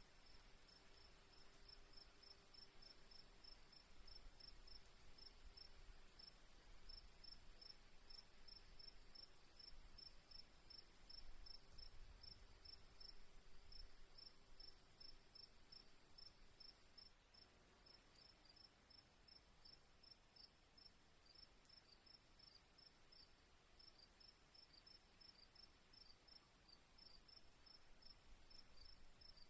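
Faint crickets chirping in a rapid, even pulse over a steady high insect drone.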